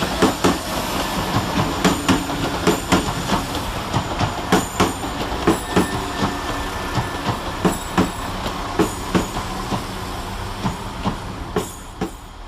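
Two coupled Class 172 Turbostar diesel multiple units running into a terminus platform, their wheels clicking over the rail joints. The clicks come further apart and die away near the end as the train slows.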